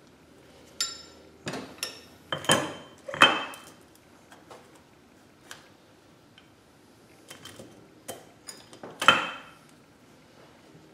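Steel transmission parts and hand tools knocking and clinking together during teardown of an NV4500 gearbox: a series of sharp metallic clanks that ring briefly, clustered in the first few seconds and again near the end, the loudest a little after three seconds and about nine seconds in.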